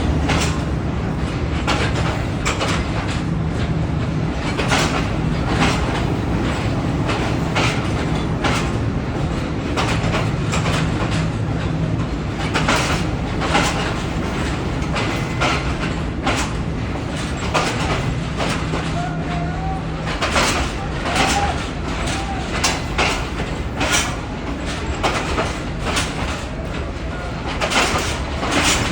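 Passenger train coaches rolling past a platform, steel wheels clacking irregularly over rail joints, over a steady low hum that cuts out about 20 seconds in.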